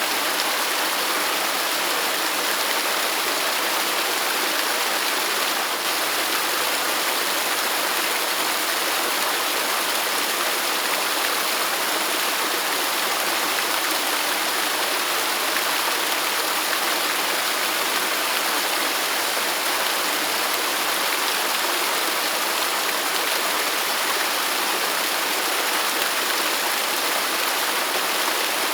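Waterfall: falling water rushing in a steady, even hiss with little deep rumble.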